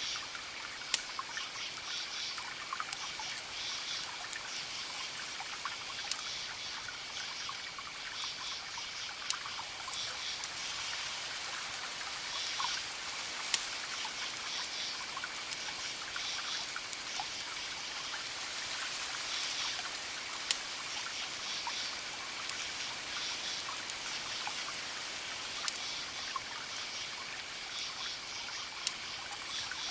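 Campfire crackling with irregular sharp pops, over crickets chirping: a steady high trill with repeated groups of chirps.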